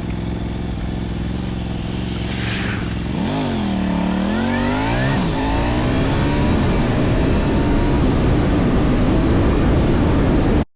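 Motorcycle engine running under way. About three seconds in the engine note dips and then climbs again, and afterwards a rushing noise grows louder as the ride continues. The sound cuts off abruptly near the end.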